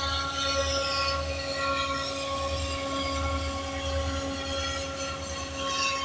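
A pair of EMD SD40 diesel locomotives running as a freight train approaches: a steady low, pulsing rumble with a steady engine tone over it.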